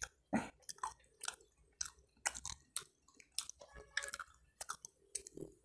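Close-up chewing of a bite of filled waffle: irregular short mouth clicks and smacks, about three a second.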